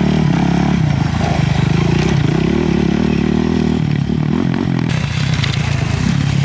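Gas Gas rally motorcycle engine running steadily at idle, its pitch wavering slightly, with a few short clanks about two seconds in and around five seconds in.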